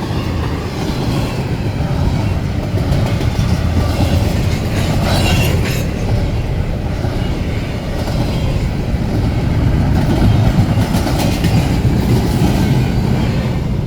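A freight train's cars rolling past close by in a loud, steady rumble, with the wheels clacking over the rail joints and clusters of sharper clicks about five and eleven seconds in.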